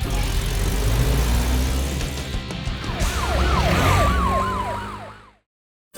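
Cartoon sound effects: a loud rushing rumble, joined about halfway through by a siren wailing quickly up and down. Everything fades and drops to silence near the end.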